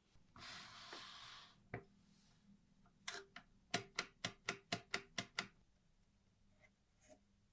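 Restored Schubert mechanical arithmometer being worked: a brief rustle, a single click, then a quick run of about ten sharp mechanical clicks, some four a second.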